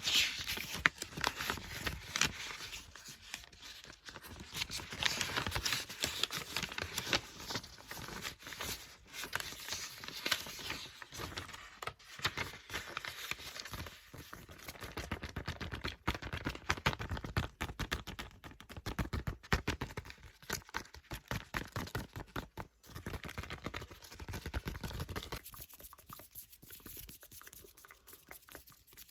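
Paper book pages being turned and flipped: a steady run of quick rustles and crinkles, quieter over the last few seconds.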